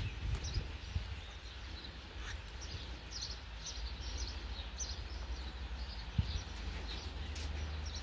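Birds chirping in short, scattered chirps over a steady low rumble, with a single knock about six seconds in.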